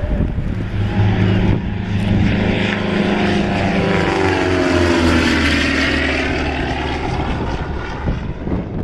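Lockheed Hudson's twin radial engines and propellers flying past. The engine note drops in pitch from about four seconds in as the aircraft passes, then eases off near the end.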